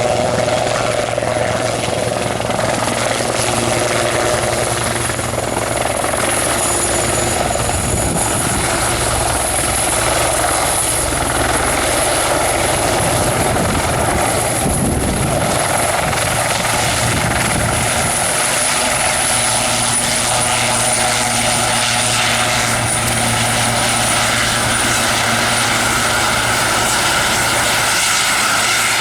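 Turbine helicopter running close by: a steady rotor beat under a high turbine whine, the whine dipping slightly in pitch about two-thirds of the way through.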